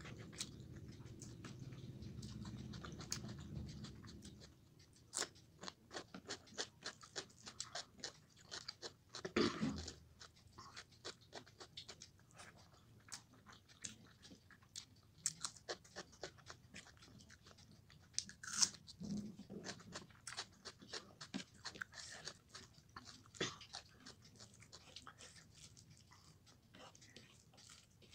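Close-up chewing of a rice meal eaten by hand: a quick, irregular run of wet mouth clicks and smacks with occasional crunches.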